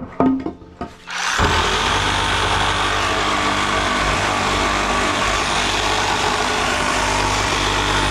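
A couple of knocks, then about a second in a machine starts up and runs loud and steady with a low hum.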